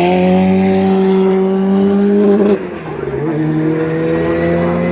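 Racing car engine at high revs, its pitch climbing under acceleration, with a quick upshift about two and a half seconds in before it climbs again.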